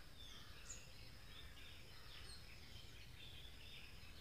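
Faint birdsong: many short chirps and whistles from several birds, over a low steady background rumble.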